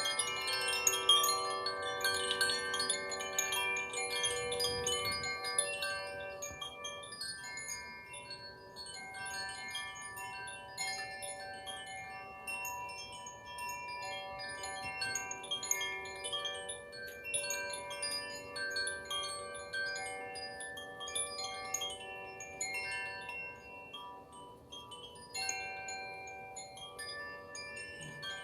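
Chimes ringing continuously: many overlapping sustained tones with fresh, irregular strikes throughout.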